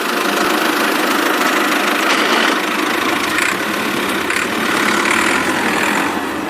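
A small engine running steadily with an even, continuous drone.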